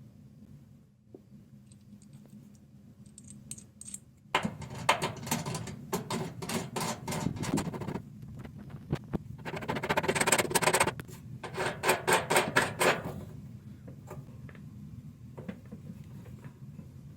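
Rapid clattering and rattling in two stretches of a few seconds each, like parts or tools being handled, over a low steady hum.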